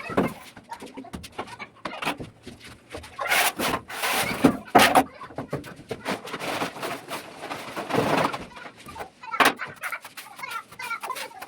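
Chickens clucking, mixed with scattered short scraping and knocking sounds.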